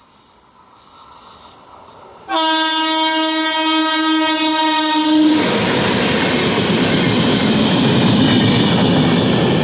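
Express passenger train running through the station at speed. Its locomotive sounds one long horn blast of about three seconds, then comes the loud, steady rush of the coaches passing close by.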